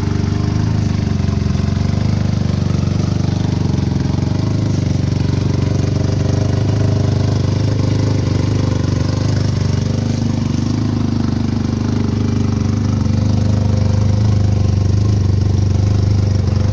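Arctic Cat XF 9000 snowmobile's turbocharged three-cylinder four-stroke engine idling steadily through an aftermarket Bikeman stainless steel exhaust, getting slightly louder about two-thirds of the way through.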